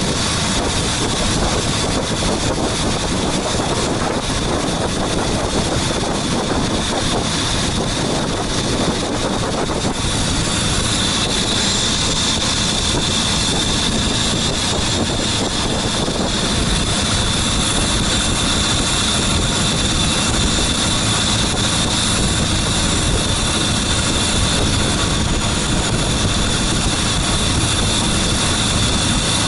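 A boat's engine running steadily under way, with a high whine over the noise that grows stronger about a third of the way in.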